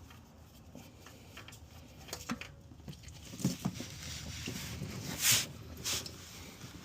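Scattered light knocks and clatter of parts being handled during an oil filter change, with two short scraping or rustling bursts near the end.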